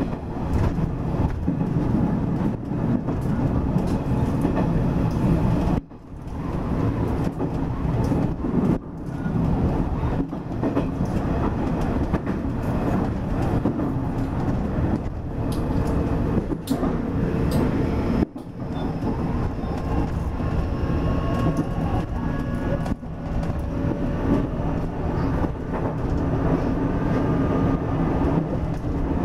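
Nishitetsu 9000 series electric train running, heard from the driver's cab: a steady rumble of wheels on the rails. A faint whining tone joins in about two-thirds of the way through.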